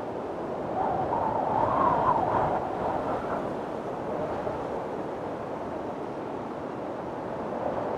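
Strong wind blowing in a storm, a steady rushing noise that swells into a louder gust about a second in and eases back after a couple of seconds.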